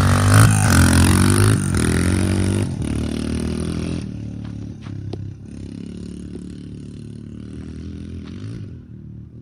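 125 cc motorbike engine revving as it is ridden, its pitch rising and falling, then fading steadily as the bike moves away.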